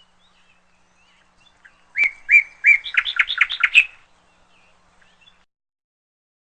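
A songbird singing one short phrase about two seconds in: three separate notes, then a quicker run of about six notes. Fainter chirps come before and after it.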